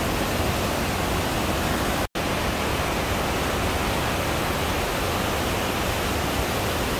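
The steady roar of Iguazu Falls, a thick, even rush of falling water, broken by a split-second dropout about two seconds in.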